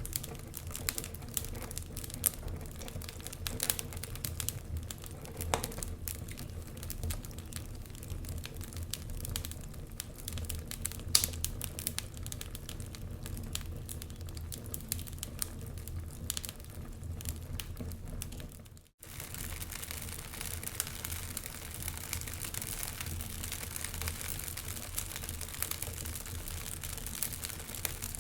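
Wood fire crackling in a fireplace, with many small irregular pops and snaps and a louder snap about 11 seconds in. The sound drops out for an instant about 19 seconds in.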